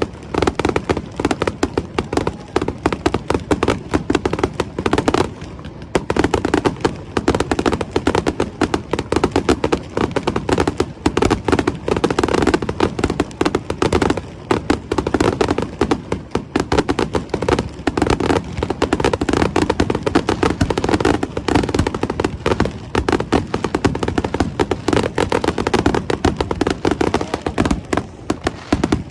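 Fireworks display: a dense, continuous barrage of rapid bangs and crackles, with a short lull about five seconds in.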